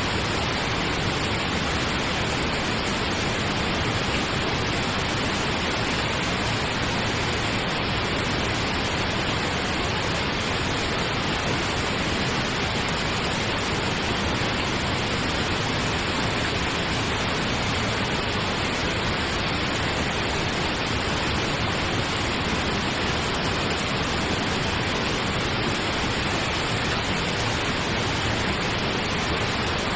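Steady pink noise, an even hiss with no change or events, played as a sleep sound.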